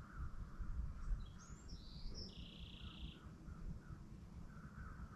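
A bird calls once, starting about a second in: a few quick high sliding notes followed by a buzzy held note, over a faint low background rumble.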